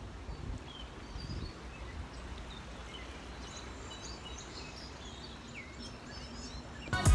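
Many small birds chirping and calling here and there over a steady low outdoor rumble. Music cuts in abruptly near the end.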